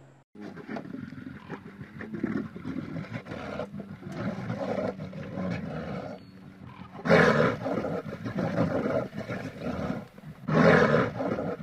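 Bear growling, rough and continuous, with two much louder roars about seven and ten and a half seconds in.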